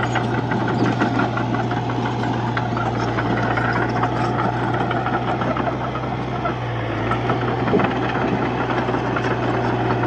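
Diesel engine of a Komatsu D31P bulldozer running steadily under work, with clattering over the engine note; the engine pitch sags briefly about seven seconds in.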